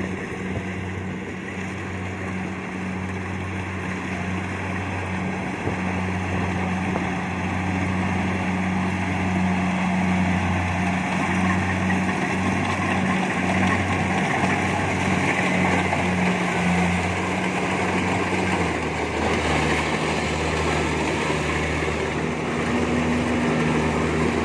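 Kubota DC-70 combine harvester running steadily while cutting rice: a constant diesel engine hum under the whirring of the cutting and threshing machinery. The engine note drops slightly about three-quarters of the way through.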